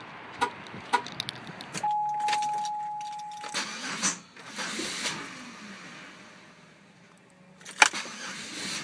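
Sounds around the Buick Rendezvous after it has been shut down: a few light clicks and key jingling, then a single steady electronic warning beep lasting under two seconds, with a sharp knock near the end.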